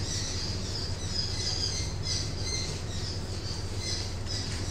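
Birds chirping over and over in the background, over a steady low hum.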